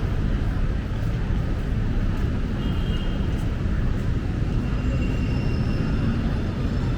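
Steady low city-street rumble of traffic, with no single sound standing out.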